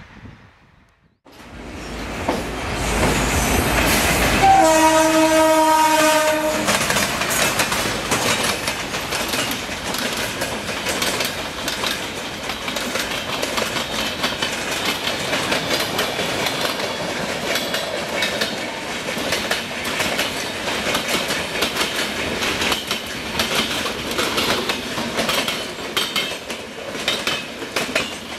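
A diesel-hauled train passing at speed: the sound builds up, the locomotive horn sounds for about two seconds, and then the coaches go by with a long run of wheel clatter over the rail joints.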